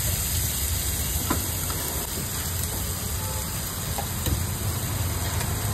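An egg dish frying and sizzling with a steady hiss in a hot pan, over a low steady rumble, with a couple of faint knocks.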